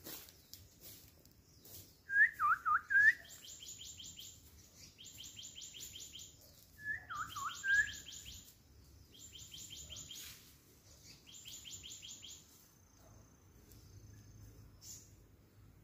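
Songbirds singing: two loud swooping whistled phrases, about two and seven seconds in, among repeated bursts of a fast high trill, each lasting about a second.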